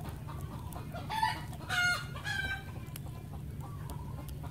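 A bird calling: a few short pitched cries about a second in and again around two seconds, over a steady low hum.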